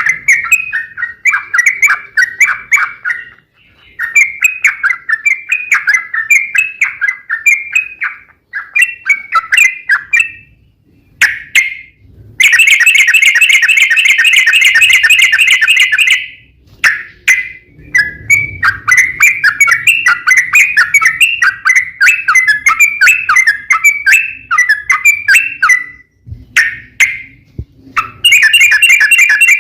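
Yellow-vented bulbul (trucukan) singing: phrases of quick, bubbly chattering notes with short pauses between them. About twelve seconds in comes a long, loud, rapid trill lasting some four seconds, and another starts near the end.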